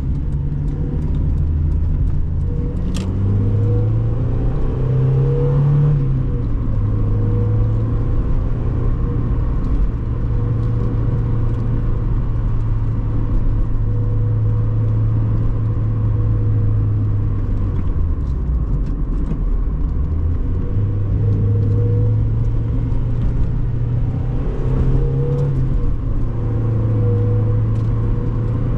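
1997 Mazda MX-5 Miata's 1.8-litre four-cylinder engine under way on the road. Its note climbs, drops back and climbs again several times as the car speeds up and shifts gears.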